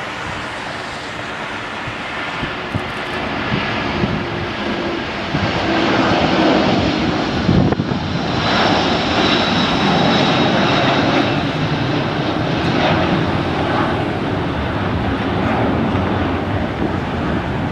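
Jet airliner's engines passing close by: the noise swells over several seconds to a loud, steady level, with a high whine running through it.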